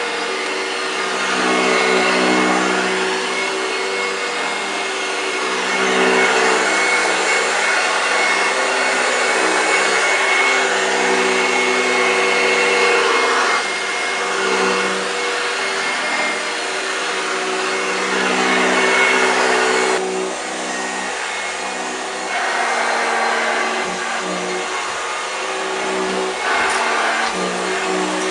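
1965 Hoover Junior 1334A upright vacuum cleaner running steadily on carpet, its motor hum steady while the overall sound swells and eases every few seconds.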